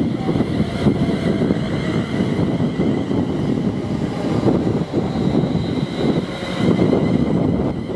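A train passing at speed: a steady rush of wheel and rail noise, with faint high whining tones over it.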